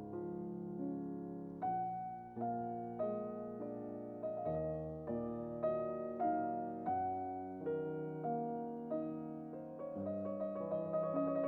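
Background music on solo piano: slow single notes and chords struck one after another, each ringing and fading before the next.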